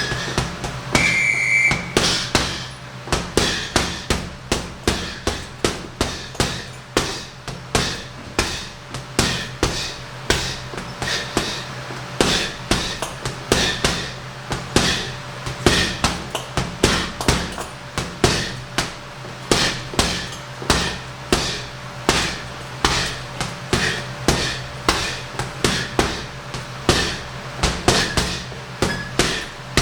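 Punches landing on a heavy bag in quick combinations: sharp thuds in flurries of two or three, several a second, keeping up throughout. A steady low hum runs underneath.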